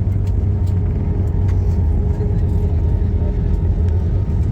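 Airliner cabin noise heard from a window seat: a steady low rumble of engines and airflow, with a faint steady hum above it.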